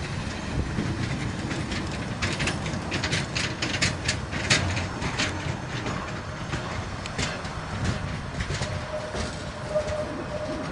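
Balfour Beatty multi-purpose vehicle (MPV) maintenance train passing at low speed: a low rumble with a quick run of wheel clicks over the rail joints in the middle, easing off as the train pulls away.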